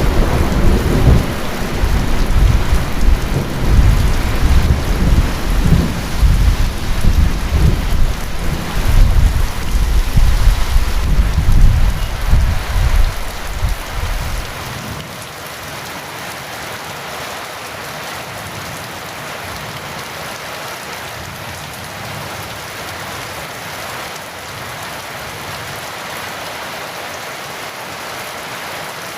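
Heavy rain falling steadily, with a long rolling rumble of thunder over it that cuts off abruptly about halfway through, leaving only the steady rain.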